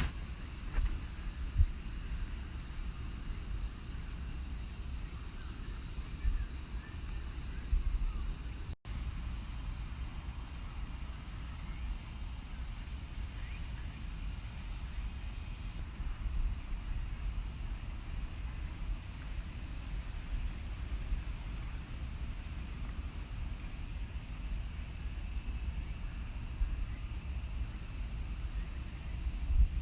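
Rain falling outdoors: a steady hiss with small irregular taps, and a low rumble underneath.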